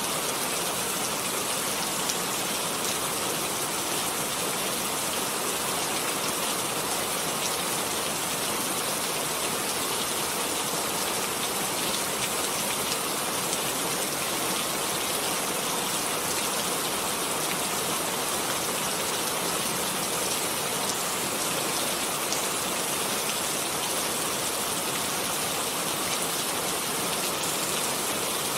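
Steady rain falling, an even hiss of many fine drop patters with no letup.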